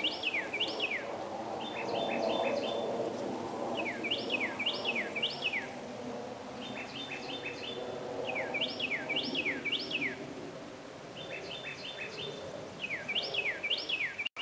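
A songbird singing: phrases of three or four loud downslurred whistles, repeated about every four seconds, alternating with phrases of short, quick, evenly spaced notes, over a faint steady background hum.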